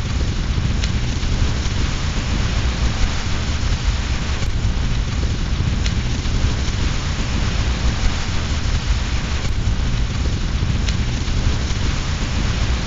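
Steady rain with a deep continuous rumble underneath. A few faint, sharp crackles from a wood fire in a fireplace break through now and then.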